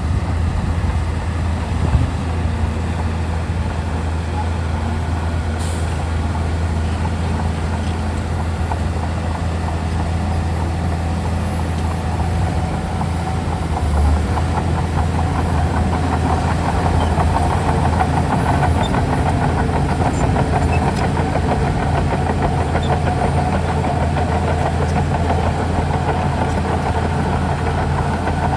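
Crawler bulldozer's diesel engine running under load with a steady low drone. A higher whine grows stronger through the second half and then drops away near the end.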